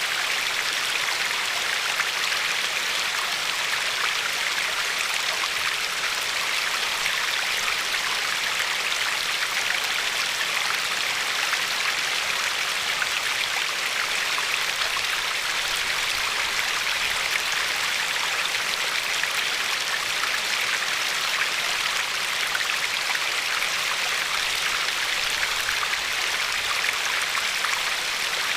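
Shallow river flowing over a pebbly bed and lapping at the shore: a steady, even rush of water with fine splashing texture.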